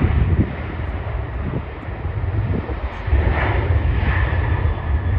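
Jet airliner engines rumbling, with a higher whine coming in about three seconds in.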